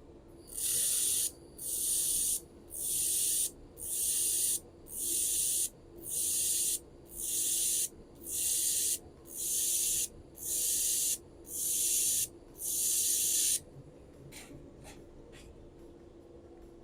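Handheld laser welder stitch-welding an anodised aluminium extrusion with aluminium filler wire, firing in eleven on-off pulses of about a second each. Each pulse is a sharp hiss. A few light clicks follow near the end, over a faint steady machine hum.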